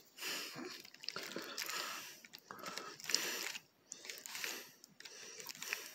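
A person chewing food close to the microphone: a series of short, irregular wet mouth sounds with brief pauses between them.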